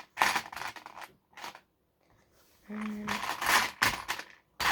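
Small plastic Lego pieces clicking and rattling as they are handled and sorted, in a string of sharp clicks and short rattles. A brief low hum sounds about three seconds in.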